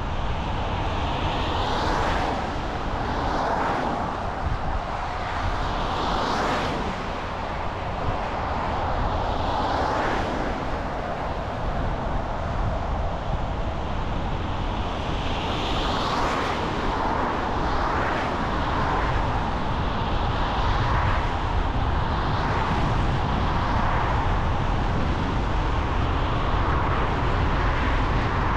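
Steady road and tyre noise of a car driving at speed, with other vehicles passing close by in a rising-and-falling whoosh every few seconds.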